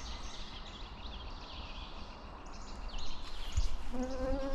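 Several songbirds singing at once, their short high chirps and trills overlapping steadily. A brief low knock comes about three and a half seconds in, and a short low hum of a human voice near the end.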